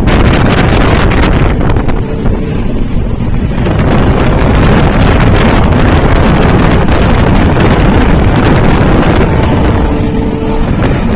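Moving train running at speed: a loud, steady rumble of wheels on the track, with wind buffeting the microphone.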